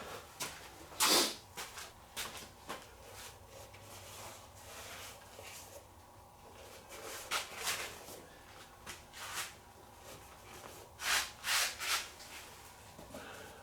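Scattered brief scrapes, rubs and light knocks of engine parts being handled and wiped, about a dozen over the stretch, with a cluster of three near the end.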